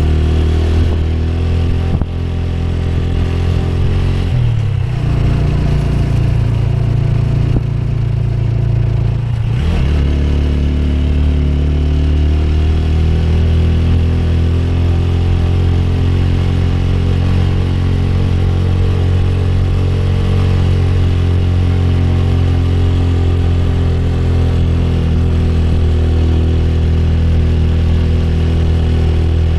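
Motorcycle engine running steadily while riding, its pitch wavering and shifting between about four and ten seconds in before settling again.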